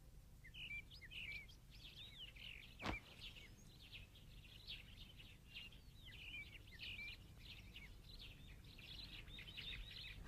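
Faint small birds chirping and twittering: many quick calls that rise and fall in pitch, starting about half a second in. A single sharp knock sounds about three seconds in.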